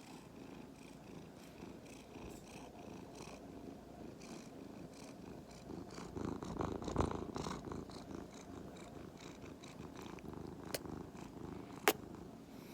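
A Norwegian Forest cat mix purring steadily, louder for a couple of seconds in the middle. A single sharp click comes near the end.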